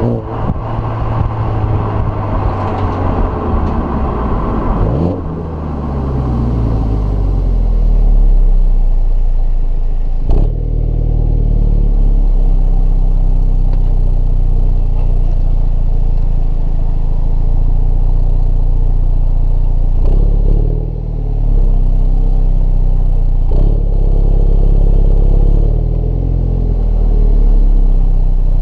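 2015 MINI Cooper S's turbocharged 2.0-litre four-cylinder engine and exhaust under way: the note falls from high revs over the first five seconds, then settles into a steady low drone, dipping briefly about ten seconds in and twice more near twenty and twenty-three seconds.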